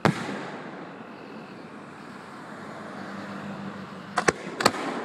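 Aerial fireworks shells bursting. One loud bang at the start echoes and fades over about a second. About four seconds in, three sharper bangs follow in quick succession.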